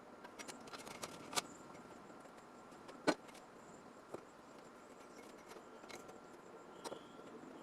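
Faint background hum with a handful of scattered short clicks and light knocks, the sharpest about three seconds in.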